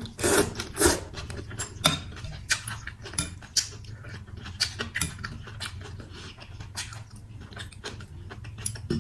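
Close-up mukbang eating sounds of a bowl of chicken Quảng noodles: wet chewing and slurping, mostly in the first second, then irregular mouth clicks and light utensil clicks against the bowl.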